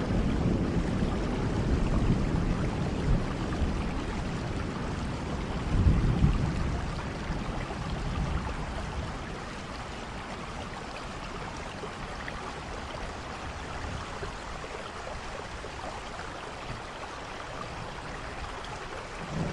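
Steady rain with low rolling thunder in the first half, swelling about six seconds in, then easing to rain alone, with thunder rumbling again near the end.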